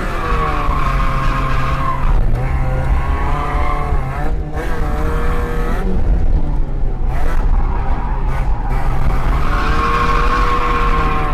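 Mazda MX5 1.6's four-cylinder engine held at high revs, its pitch rising and falling, with tyres squealing as the car drifts.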